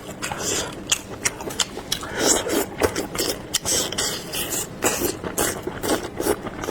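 Close-up chewing of soft, springy braised wheat gluten strips: a quick run of wet mouth clicks and smacks, several a second.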